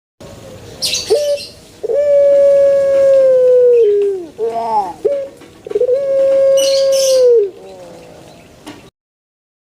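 Puter pelung dove (a long-voiced domestic Streptopelia risoria) singing its drawn-out coo. Two long, level notes, each held about two seconds and dropping at the end, with a few short falling notes between them.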